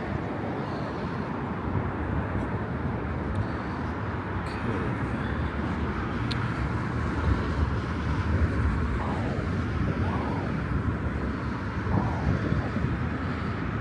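Steady road-vehicle noise: a low, even rumble with hiss that hardly changes.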